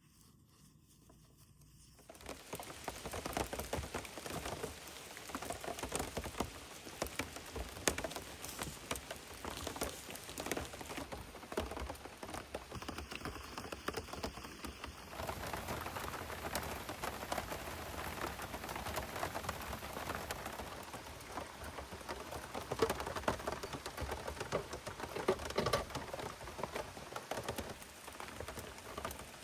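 Rain falling, with many drops hitting a surface in a dense, even spatter. It comes in suddenly about two seconds in, after a near-quiet start.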